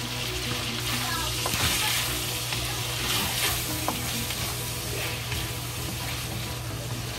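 Chicken pieces slow-frying in oil in a wide pan, a steady sizzle, while a wooden spatula stirs and scrapes them around, with a couple of brief knocks of the spatula against the pan.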